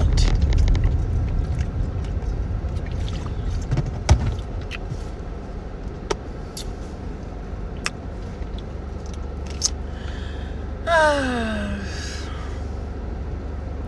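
Steady low rumble of a car heard from inside the cabin, with a few sharp clicks. About eleven seconds in, a woman lets out a short sigh that falls in pitch.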